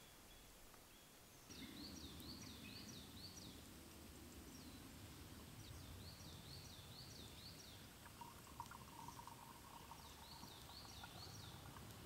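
A small songbird singing three short phrases, each a quick run of high, rising-and-falling notes repeated four or five times, over faint steady outdoor background.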